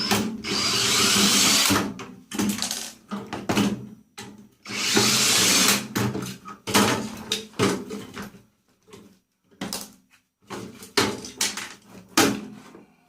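Power drill running in two bursts of about a second and a half each while a microwave is being taken apart, with short metallic knocks and clatters of loose parts between the bursts.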